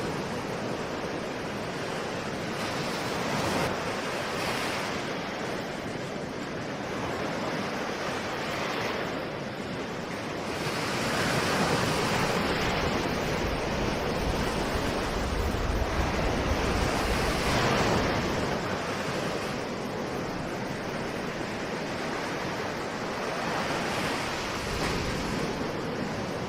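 Ocean waves washing in, a continuous rushing surf that swells and eases every few seconds, loudest in the middle.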